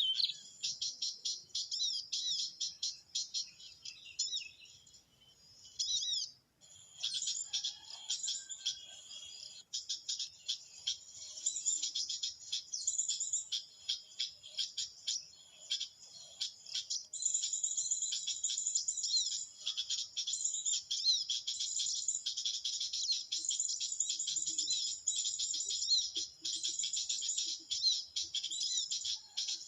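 Small birds chirping and twittering, a dense run of rapid high-pitched notes that thins and briefly breaks off about five seconds in, then goes on thick and steady.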